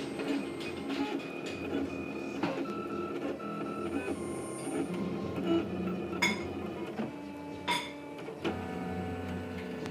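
Leapfrog Creatr 3D printer running, its stepper motors whining in steady tones that jump to a new pitch every half second or so as the print head changes moves, with two sharp clicks near the middle.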